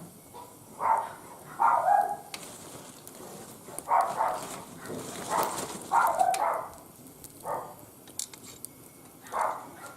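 A dog barking, about seven short barks spread out and some in quick pairs, over the faint crackle of a small wood fire burning in a barbecue grill.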